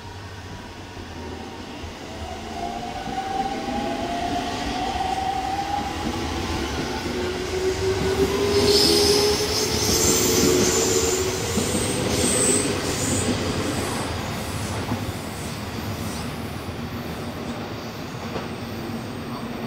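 JR Central 313 series electric train accelerating: its inverter motor whine rises in pitch in two steps over the first half. Wheel and rail noise builds to a peak about halfway through and then slowly fades.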